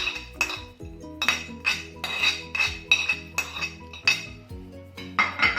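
A metal spoon clinking against a metal mixing bowl, about two or three sharp ringing clinks a second.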